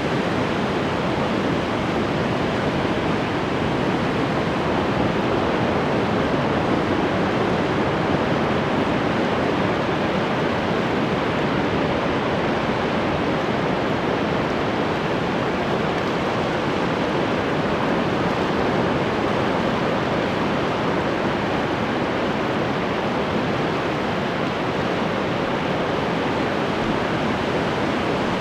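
Ocean waves breaking on the shore: a steady, even rush of surf with no distinct single breakers standing out.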